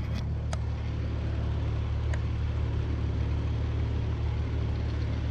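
Engine running steadily, a constant low hum, with a couple of faint clicks.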